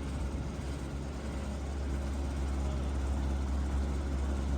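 Steady low drone of a car on the move, with an even hiss over it.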